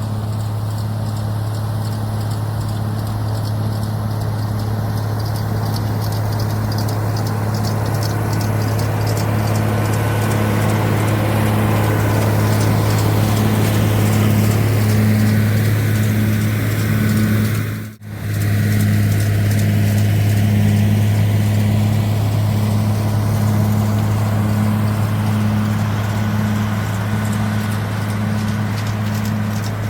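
White 2-135 tractor's Perkins V8 diesel engine running steadily under load, heard from inside the cab: a deep, even drone with a regular pulse over it. It breaks off for an instant about two-thirds of the way through.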